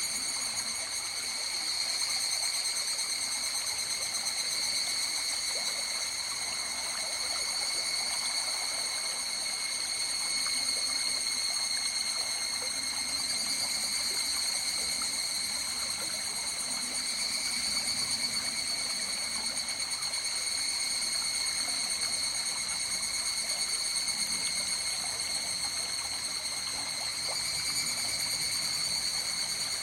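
A river stream flowing and trickling in a steady murmur. Above it runs an unbroken high-pitched insect chorus.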